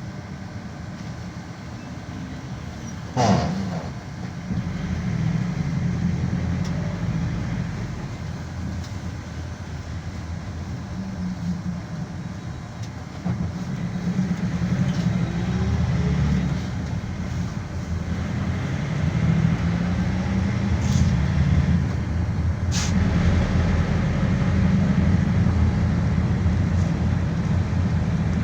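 Interior of a GAZelle Next minibus on the move: engine and road noise as a steady low rumble that grows louder toward the end. A single sharp knock about three seconds in, and two lighter clicks near the end.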